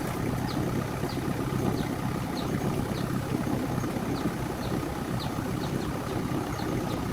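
An engine idling steadily, with a short high chirp repeating about twice a second over it.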